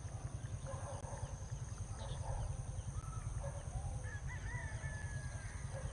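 Outdoor ambience: a low, fluctuating rumble of wind on the phone's microphone, with a few faint short chirps and whistles in the second half.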